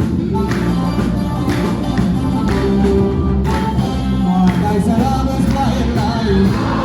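Ethiopian gospel song (mezmur): singing over instruments and a steady percussive beat.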